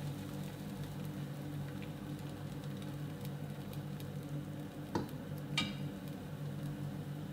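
A steady electric hum from a kitchen appliance, with faint scattered ticks and two sharper clicks about five seconds in.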